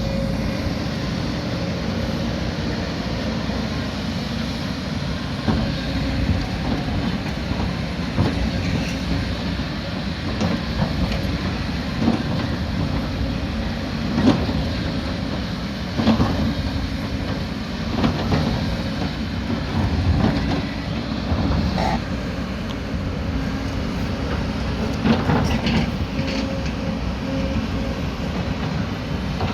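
Diesel engine of a heavy earthmoving machine running steadily under work, with scattered metallic clanks and knocks over it.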